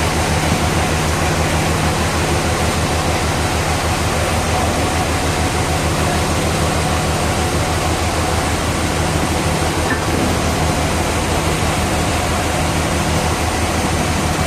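Sawmill machinery running steadily: a loud, even mechanical noise over a low, rapidly pulsing hum.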